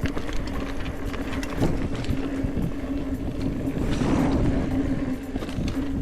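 Mountain bike rolling over a dirt trail, with rattles and rumble and a steady hum from the rear of the bike. The rider suspects the rear brake disc is making the noise.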